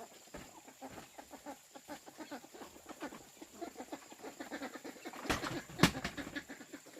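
Chickens clucking in short irregular calls, with two sharp knocks about half a second apart a little after five seconds in.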